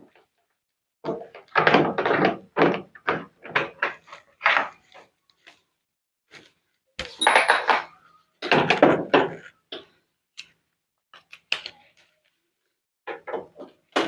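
Irregular knocks, scrapes and clatter of a top-load washing machine's plastic panel being unscrewed and handled as it is opened, in bunches with a pause in the middle.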